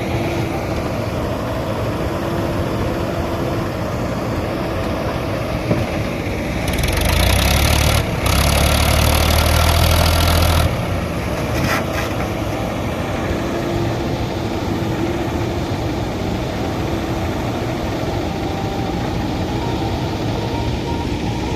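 JCB 3DX backhoe loader's diesel engine running steadily, growing noticeably louder for about four seconds in the middle, with a brief break partway through, before settling back to its steady running level.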